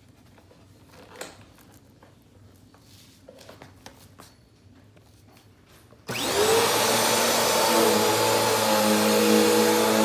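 A few faint handling clicks and rustles, then about six seconds in a Bissell PowerGroom vacuum cleaner switches on: its motor spins up with a quick rising whine and settles into a loud, steady run.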